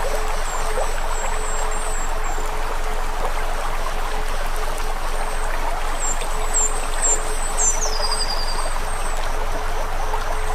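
Steady rushing noise with small crackles, and high-pitched bird chirps over it, ending about eight seconds in with a short falling trill.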